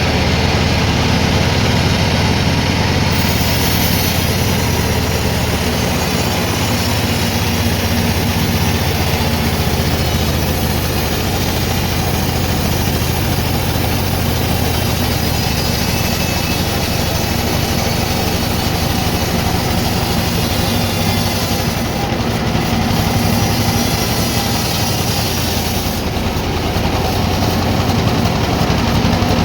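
Sawmill machinery running steadily, with a low engine-like hum under an even mechanical noise.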